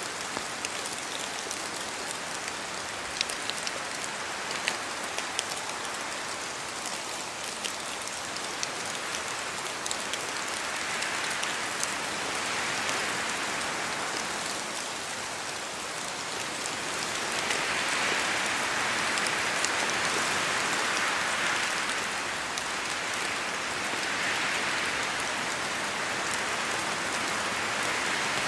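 Steady rain falling through forest trees, with individual drops ticking sharply on leaves, mostly in the first part. From about ten seconds in, wind gusts swell and ease through the canopy, loudest a little past the middle.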